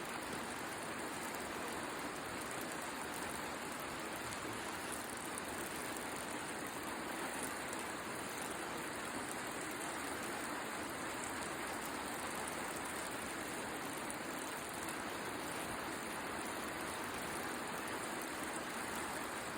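Steady rain hiss, mixed with the crackle of a wood bonfire burning.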